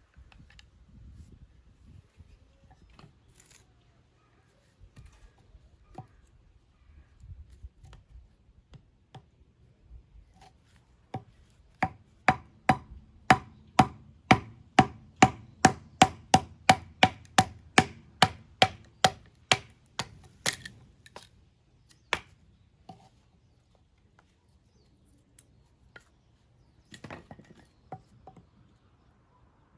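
A quick run of knife chops, about two dozen evenly spaced strikes at two or three a second, each ringing briefly, with a few scattered knocks before and after.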